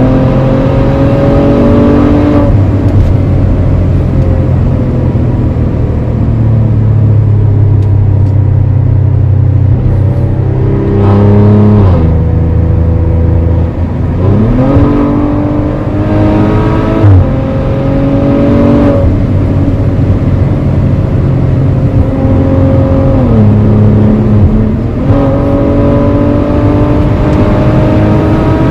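Maserati Levante GranSport SQ4's twin-turbo V6 pulling under acceleration, its pitch climbing steadily and then dropping sharply at each gearshift, several times over, with a steadier stretch of lower running in the middle.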